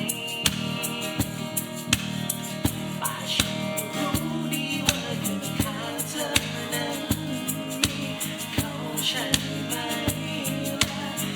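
A band plays a pop song: a voice singing over sustained instruments and a steady drum beat.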